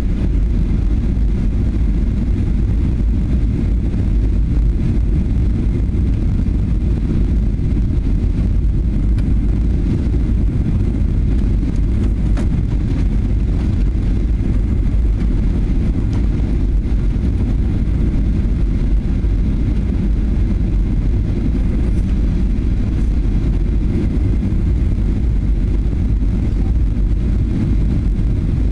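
Cabin noise inside a Boeing 737-800 airliner in flight: a loud, steady, deep rumble of engines and rushing air.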